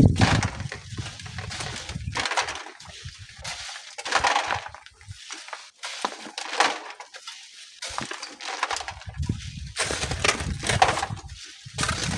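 Gusts of strong wind buffeting the microphone, with irregular gritty bursts of sand being shovelled and sifted by hand. The wind rumble is heaviest at the start and again in the last few seconds.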